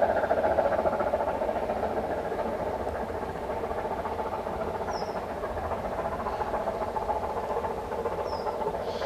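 Narrow-gauge steam train running, a steady hiss-like rumble that slowly fades, with two short high chirps midway and near the end.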